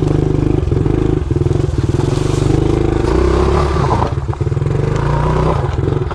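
Dirt bike engine running while being ridden, a steady, fast-pulsing exhaust note that eases off briefly about four seconds in.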